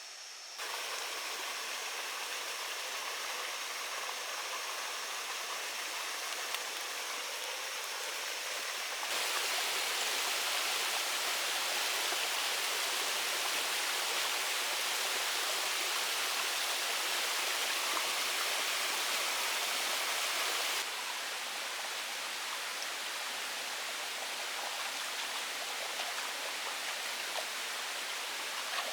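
Steady rush of running water or heavy rain. Its level jumps abruptly about 9 seconds in and drops back about 21 seconds in. Faint steady high-pitched tones sound over it during the first part.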